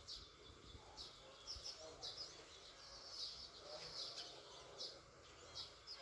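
Faint, busy chirping of small birds: many short, high chirps in quick succession over a low background hiss.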